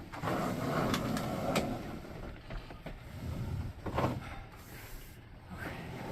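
A heavy object being slid and shifted: a rough scraping for the first couple of seconds, then scattered knocks and bumps.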